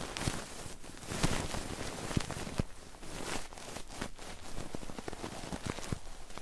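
Close-miked ASMR ear cleaning and ear rubbing on a binaural microphone: irregular crackly scratches, scrapes and soft taps, a few each second.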